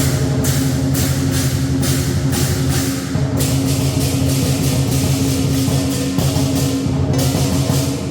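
Lion dance percussion playing: cymbal clashes at about two to three a second over a low ringing drum and gong, with a brief break about three seconds in, then breaking off near the end.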